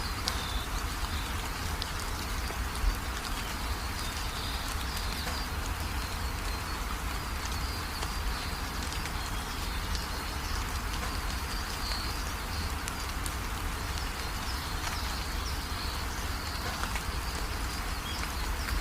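Steady rain falling, with many small drops ticking and pattering over a constant low rumble. Faint high chirping, from birds, runs on and off behind it.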